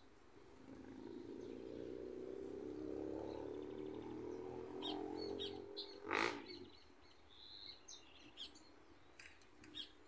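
Birds chirping: scattered short, high chirps over a low hum that swells and fades during the first five seconds. A short loud sound breaks in about six seconds in.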